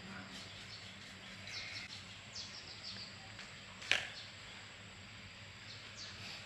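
Birds chirping in short, falling calls over a faint low hum, with one sharp click or knock just under four seconds in.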